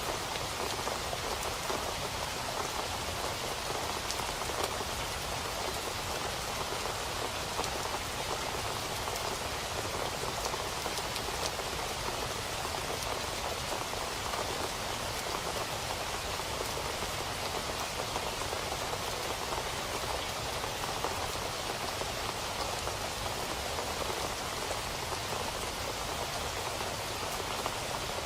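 Steady rain falling on a surface, a constant even patter of many drops with no thunder.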